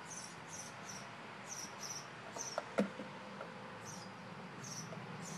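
A small bird chirping: short, high chirps, each falling in pitch, coming irregularly, with a single sharp knock a little past the middle.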